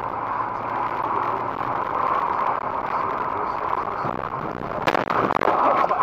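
Steady road and engine noise of a moving car, heard from inside the vehicle, with a sudden sharp bang about five seconds in and louder rough noise after it.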